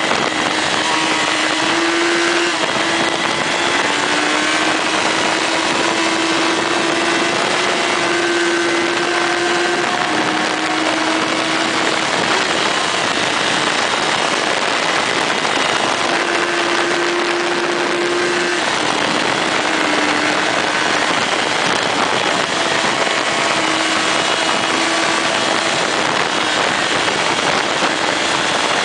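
Motorcycle engine running while riding, under a constant rush of wind noise. The engine note steps up and down in pitch several times and drops away for a few seconds near the middle before returning.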